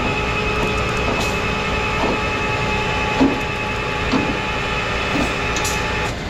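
Rollback tow truck's hydraulics whining steadily under load as the wrecked car is eased slowly up the bed, with a few light knocks from the load along the way. The whine cuts off near the end as the pull stops.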